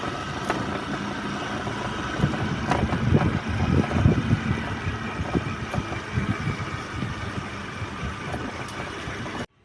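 Motor scooter running on the road: a steady engine and road rumble with irregular knocks.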